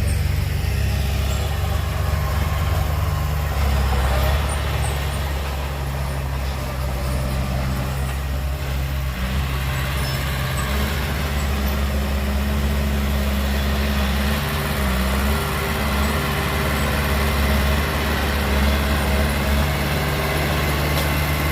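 Heavy diesel engine running steadily, a deep low drone with small rises and dips in level but no sharp events.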